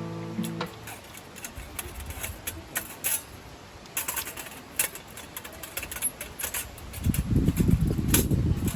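Scattered sharp clicks and crackles, as from a burning campfire, with a louder, rough low rumble setting in about seven seconds in. The tail of some guitar music ends in the first moment.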